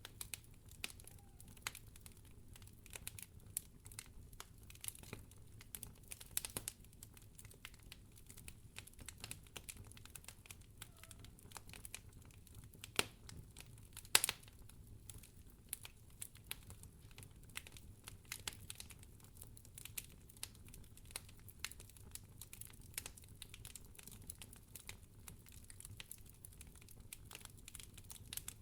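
Wood fire crackling in a fireplace: a steady scatter of small irregular snaps, with a couple of sharper pops about halfway through, over a faint low hum.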